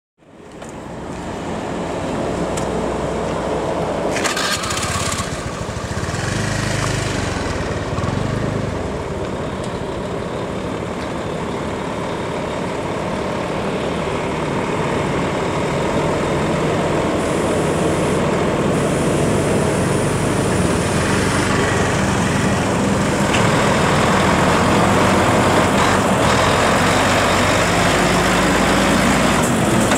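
Steady road-traffic engine noise, with a heavy diesel truck's engine running among it, slowly growing louder.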